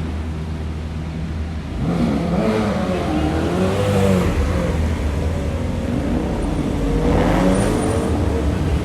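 Car engine revving, its pitch rising and falling several times, over a steady low rumble of running engines.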